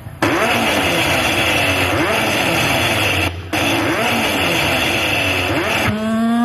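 Car engine revving up and down over and over, cutting in and out abruptly with a short break about three seconds in. Near the end it gives way to a steady held note.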